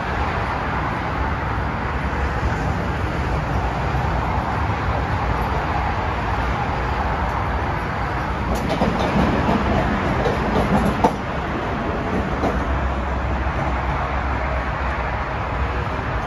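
Chicago 'L' rapid-transit train running at a station platform and pulling out, a steady rolling rumble with a cluster of sharp clicks about halfway through.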